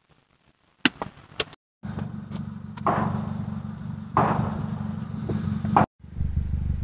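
A few sharp clicks, then a car engine idling steadily. The sound cuts off abruptly about a second before the end and the idle starts again.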